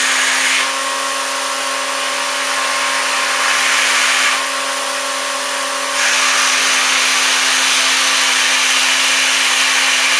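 Vacuum cleaner running steadily, a motor whine under a rush of air. The rushing air swells briefly at the start, again for a couple of seconds around the middle, and stays louder from about six seconds in.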